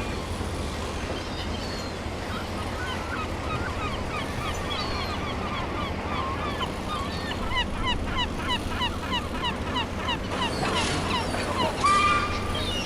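A flock of seagulls calling, many short falling cries overlapping, over a steady low rumble of dockside noise. Near the end a brief, louder high-pitched squeal cuts through.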